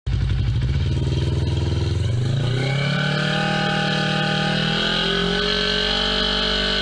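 Yamaha R25 parallel-twin engine running with its exhaust silencer removed: a low, pulsing idle, then revved up about two seconds in and held at higher revs.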